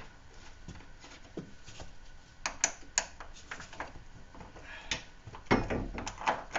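Scattered metallic clinks and knocks from refitting a car's rear shock absorber by hand: a few sharp taps about two and a half seconds in, then a busier run of knocks near the end.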